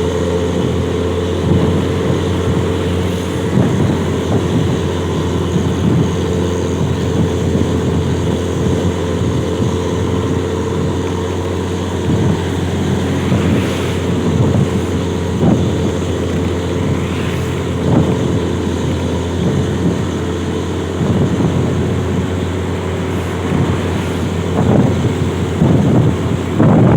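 Bus engine running through a loud open 'brong' exhaust: a deep, steady drone, with gusts of wind buffeting the microphone.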